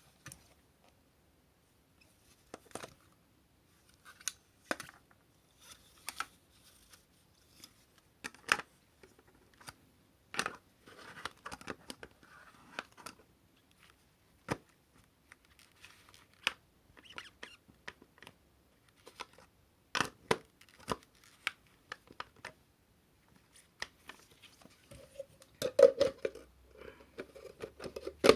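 Hard plastic parts and packaging being handled: irregular sharp clicks, taps and brief rustles with pauses between them, and a louder knock and rustle near the end.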